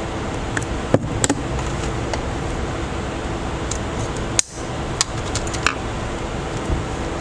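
Steady fan-like hum and hiss, with a few small, sharp clicks scattered through it.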